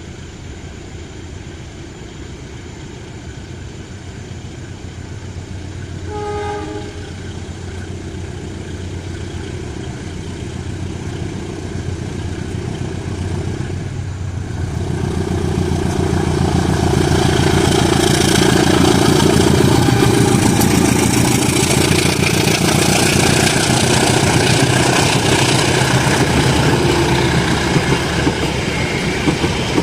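CC 203 diesel-electric locomotive hauling the Serayu train: engine hum as it approaches, one short horn blast about six seconds in, then the train passes loudly from about halfway, with rolling wheel noise and clickety-clack over the rail joints.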